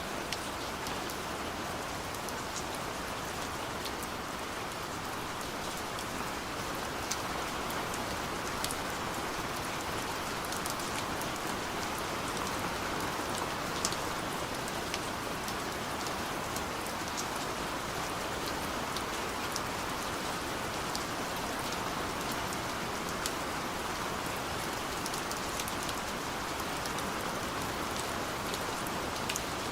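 Steady rain falling on a surface, an even hiss with scattered sharp drop ticks throughout.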